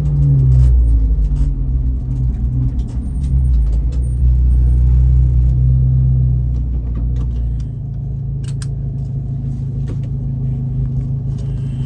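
Race car's engine and road rumble heard from inside the cabin while driving, the engine note shifting in the first few seconds, holding steady, then falling away about eight seconds in as the car eases off, with a few light rattles.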